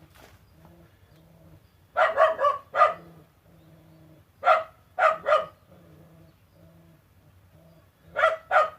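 A dog barking in three short bursts of three or four barks each, about two, four and a half, and eight seconds in.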